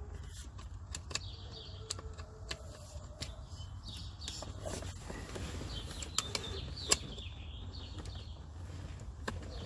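Scattered clicks and light metallic knocks of a hand wrench and tools working at the car's seat-mounting nuts, the sharpest click about seven seconds in, over a steady low hum.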